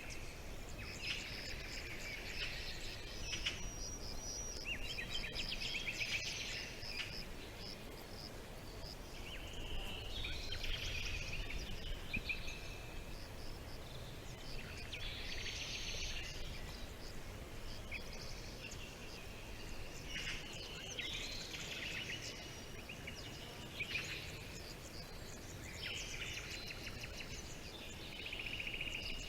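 Several songbirds chirping and trilling in repeated bursts, over a steady low background rumble.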